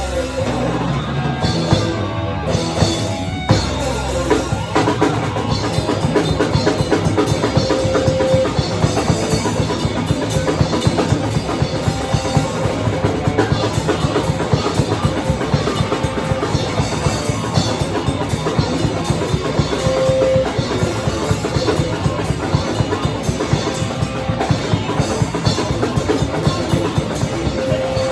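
Loud live heavy band playing, led by a drum kit with bass drum and snare; about four and a half seconds in, the drumming turns very fast and dense and keeps going.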